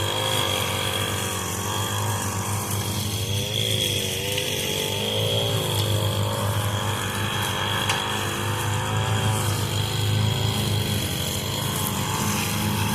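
Echo SRM 225 two-stroke string trimmer running at low RPM, its engine note wavering up and down, over the steady low hum of a Craftsman riding mower's Briggs & Stratton engine.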